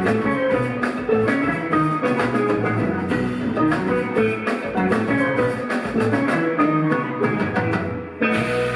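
A live rock band plays an instrumental passage on electric guitar, bass, keyboards and drums. The sound dips and changes abruptly about eight seconds in.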